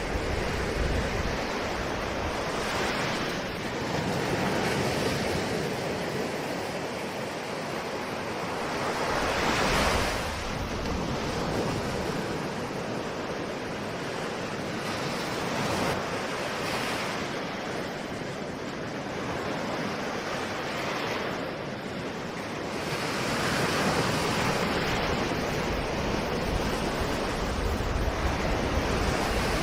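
Ocean surf: waves breaking and washing in a continuous rushing wash that swells and eases every few seconds, with one louder wave about a third of the way in and a louder stretch near the end.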